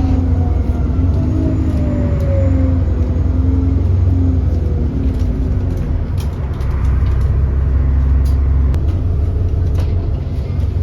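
6.7-litre Cummins ISB diesel of an Alexander Dennis Enviro400 bus running under way, with a low drone and a drivetrain whine that falls in pitch over the first few seconds; sharp rattles come and go, and the engine note dips briefly about two-thirds of the way through. The bus is known to have an exhaust leak.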